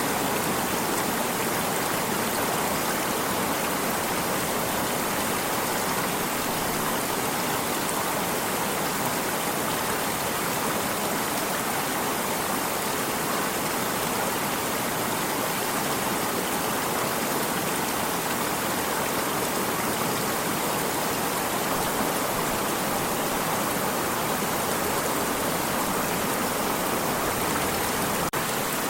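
Stream of water flowing, a steady rushing with no breaks or changes.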